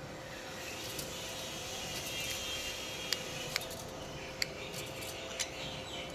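Small birds chattering faintly in high chirps, with a few sharp clicks about halfway through and later.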